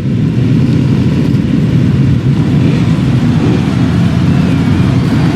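Engines of many motocross bikes running together, a loud steady low rumble.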